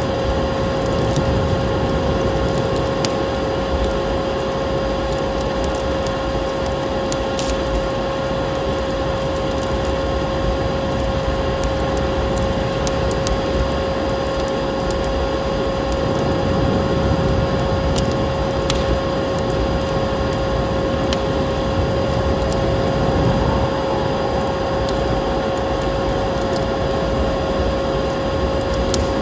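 A vacuum cleaner runs steadily with a constant whine, mixed with the scattered small pops of a crackling wood fire.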